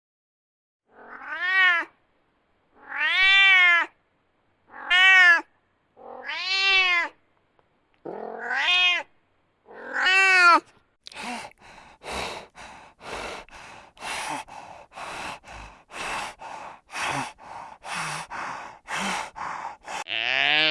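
An animal calling: six drawn-out, clearly pitched calls, each rising then falling, spaced about a second and a half apart, followed by a quick run of short rasping sounds about two a second.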